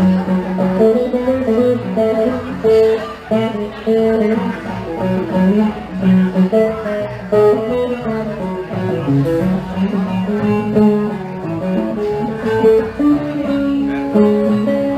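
Live band music with no singing: a guitar plays a melodic line of picked notes over the band.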